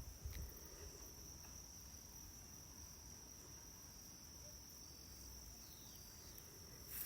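Faint, steady high-pitched trill of crickets, one unbroken note with a faint low rumble beneath it.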